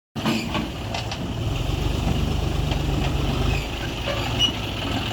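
Heavy machinery's diesel engine running with a steady low throb, easing slightly about three and a half seconds in.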